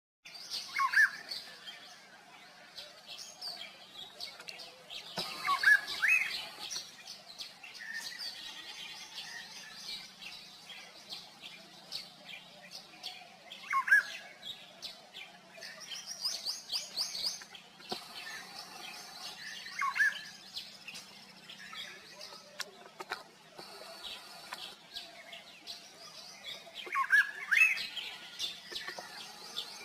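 Golden oriole calling: a short whistled phrase that glides up and down in pitch, repeated about five times several seconds apart, over a steady background of other birds' high chirping.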